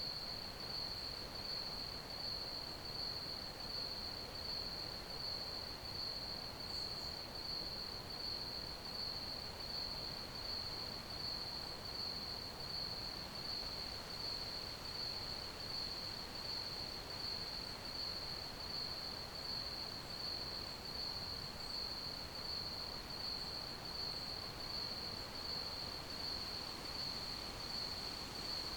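Crickets chirping in a steady, unbroken chorus: a high-pitched trill with rapid even pulses, over a faint background hiss.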